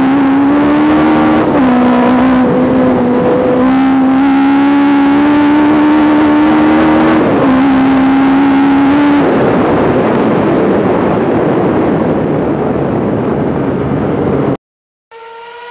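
Ford Escort Mk1 hillclimb car's engine under hard acceleration, heard onboard: the engine note climbs steadily in each gear and drops sharply at two upshifts. About nine seconds in the note gives way to a loud, even rushing noise, which cuts off suddenly near the end.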